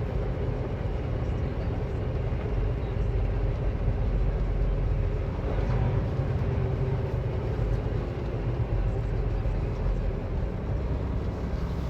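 Semi-truck diesel engine running with a low, steady drone while the truck creeps along at low speed.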